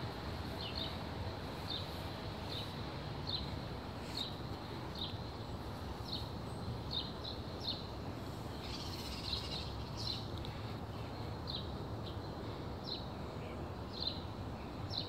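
A small bird chirping over and over, short high notes repeating every second or so, with a quicker flurry of calls about nine seconds in, over steady outdoor background noise.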